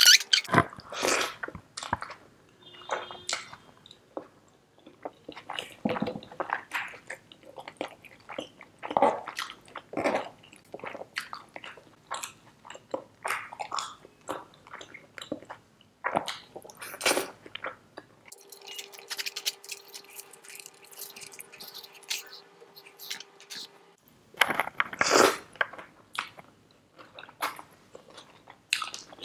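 A person eating chicken biryani mixed with butter chicken gravy by hand, close to the microphone: many short, irregular chewing and biting sounds. A steady hum comes in for several seconds past the middle.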